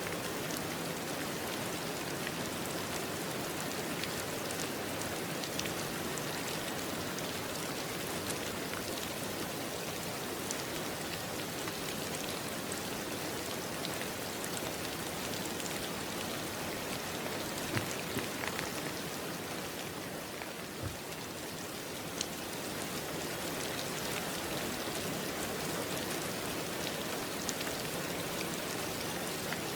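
Steady rain falling, with scattered individual drops ticking on a surface. A few louder drops land a little past the middle, where the rain briefly eases.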